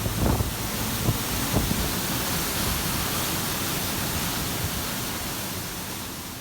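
Waterfall: a steady rush of falling water that slowly fades out over the last couple of seconds.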